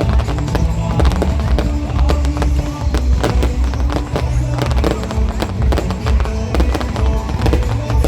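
Fireworks bursting and crackling in quick, irregular succession, over loud music with a heavy bass.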